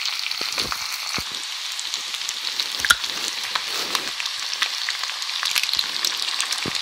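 Potatoes and onion frying in sunflower oil in a pan: a steady sizzle, with a few short, sharp clicks scattered through it.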